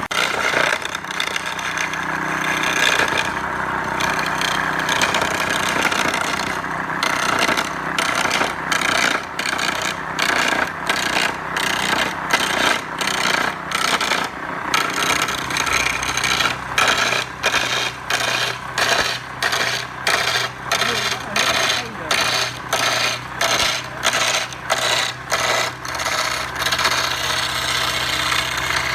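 Rhythmic rasping strokes of a hand tool working wood, about two strokes a second. A steady machine hum comes in near the end.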